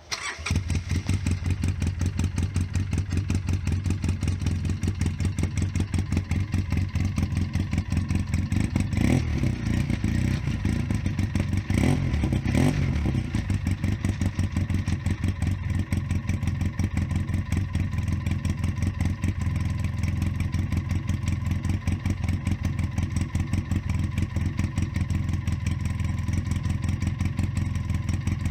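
Polaris RZR 800's twin-cylinder four-stroke engine on a cold start: it catches right at the start and then idles steadily and loudly, with two short blips of the throttle about a third of the way in.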